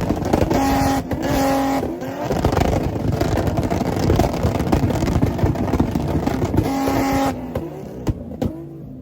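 Car engines revving hard and running loudly. A steady car-horn tone sounds twice, about a second in and again near seven seconds. The engine noise drops off sharply about seven seconds in.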